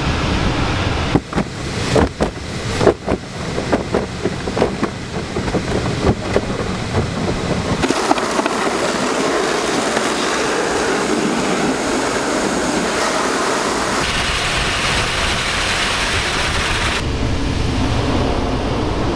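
Steady vehicle running noise that changes abruptly a few times, with irregular knocks and clicks during the first several seconds.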